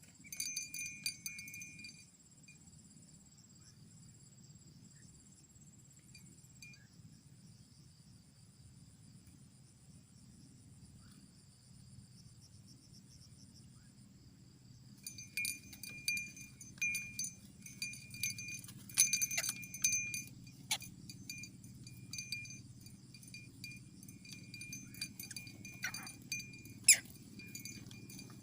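Night insects such as crickets trilling steadily at a high pitch. Over them come sharp clicks and ringing high tones with a clinking, jangling character, briefly at the start and then repeatedly from about halfway through.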